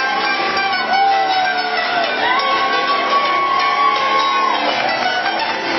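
Live rock band playing in a large hall. Long held melody notes slide into pitch over the band, about a second in and again from about two seconds in to past four seconds.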